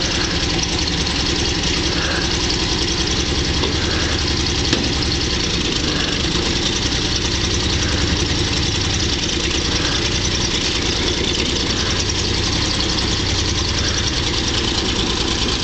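1949 Chevrolet dump truck's inline-six engine idling steadily, with no revving.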